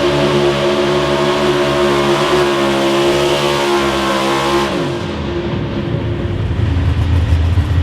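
A truck- or tractor-pulling engine running flat out at high revs with a steady, loud note. About two-thirds of the way in the revs fall away quickly as the throttle is let off, leaving a low rumble.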